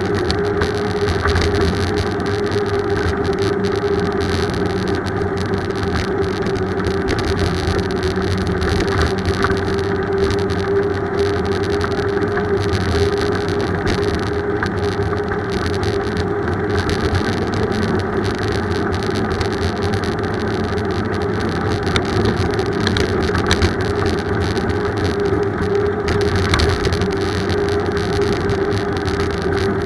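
Steady road and wind noise of a bicycle ride, with a constant hum running underneath and a few faint clicks.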